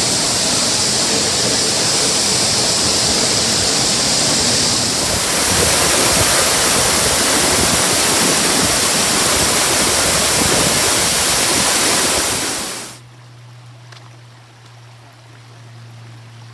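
Loud, steady rush of a waterfall heard close up from behind the falling water. It cuts off sharply about 13 s in, leaving a much quieter scene with a low steady hum.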